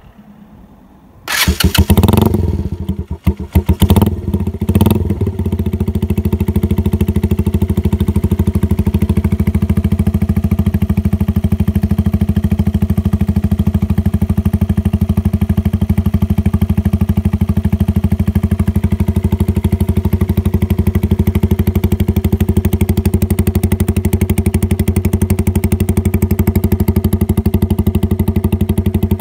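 Motorcycle with an aftermarket dual sports exhaust starting about a second in and revved in a few quick blips, then settling into a steady, even idle.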